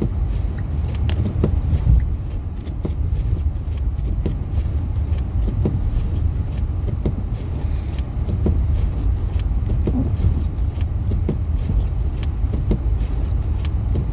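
Steady low rumble of a truck driving on a snow-covered highway, heard from inside the cab, with scattered faint ticks and knocks.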